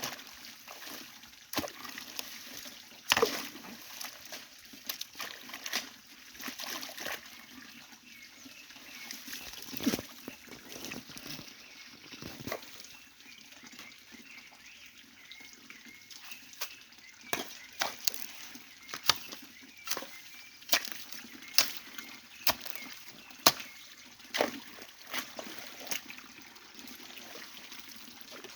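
Stream water sloshing and splashing as the stream is being cleaned out, with frequent sharp splashes at irregular intervals over the steady sound of flowing water.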